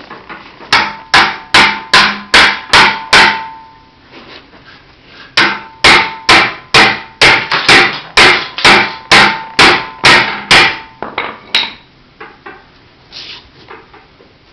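A tire iron hammering the sheet metal inside a Suzuki Boulevard C50/M50 muffler, punching out a bigger hole. Sharp, ringing metal strikes come about two or three a second in two runs: about seven, a pause of a couple of seconds, then about thirteen more that trail off into a few lighter taps.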